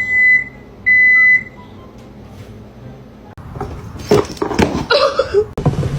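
Two short electronic beeps, each a steady high tone about half a second long, one right after the other. A few seconds later come indistinct pitched vocal sounds.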